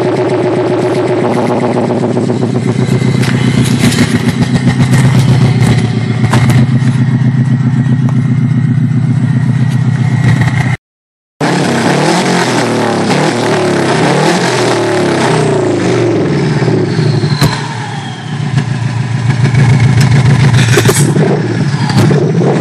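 Subaru Legacy Turbo's turbocharged flat-four boxer engine running with no exhaust behind the downpipe, very loud: steady at first, then revved up and down repeatedly in the second half. The sound cuts out briefly about halfway.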